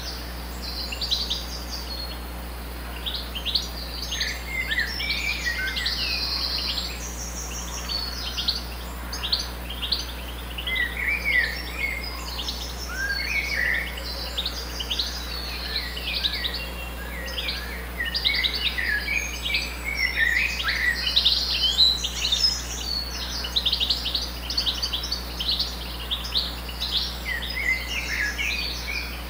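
Birds chirping and singing, many short high calls and trills overlapping without a break, over a faint steady low hum.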